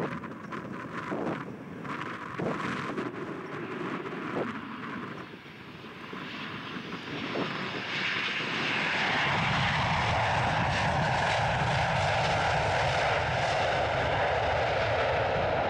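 Boeing 737-800 on landing approach, its CFM56 jet engines growing from faint to loud over the first eight or nine seconds, then a steady loud jet rumble with a whining tone. Wind buffets the microphone early on, before the jet noise builds.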